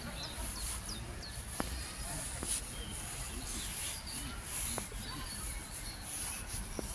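Small birds chirping in short, high calls over a steady low outdoor background noise, with a few faint clicks.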